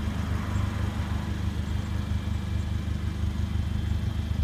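Mercedes-Benz CLA45 AMG's turbocharged 2.0-litre four-cylinder idling, a steady low rumble.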